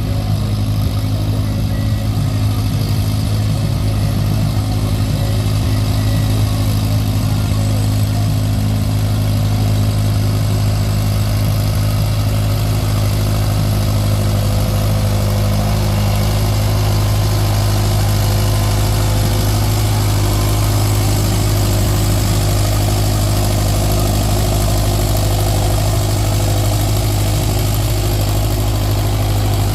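Antique farm tractor engine running at a steady speed, with a constant low hum and no revving.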